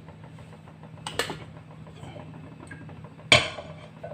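Metal kitchen utensils knocking and clinking against cookware: two sharp knocks about a second in and a louder, ringing clank a little past three seconds, over a steady low hum.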